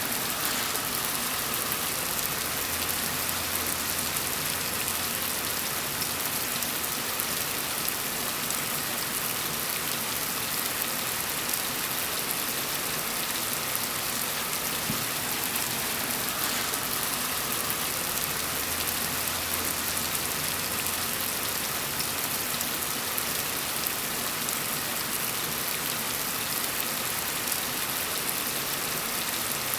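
Steady rain falling on a surface, an even hiss with fine patter. A faint low hum comes in twice, for a few seconds each time.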